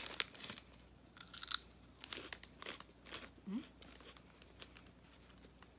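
A person biting into and chewing crunchy puffed potato snacks: a run of crisp crunches in the first few seconds that thin out toward the end.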